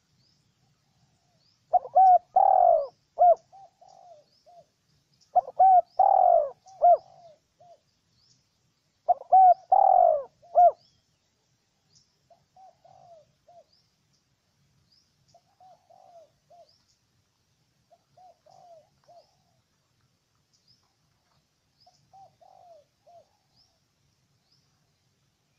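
Spotted dove cooing: three loud phrases of several coos each, about three and a half seconds apart, followed by fainter, shorter coo phrases every few seconds. Faint high chirps from small birds run underneath.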